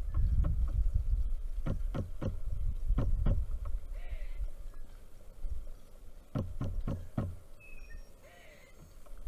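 Pileated woodpecker pecking at a feeder: two runs of sharp knocks, about five then four, over a low rumble in the first few seconds. A faint bird call repeats about every four seconds.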